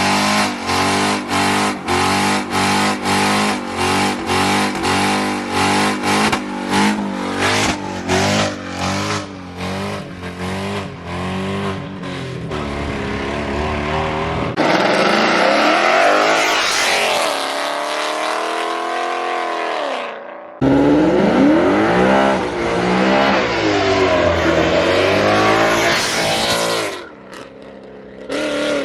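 Car engine held against the rev limiter, its note cutting in and out about two to three times a second. After a sudden change it is revving up and down repeatedly, the pitch sweeping high and back.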